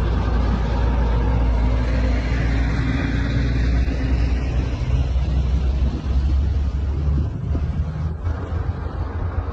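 A motor vehicle's engine running steadily with a deep rumble and a faint rising whine, easing off near the end.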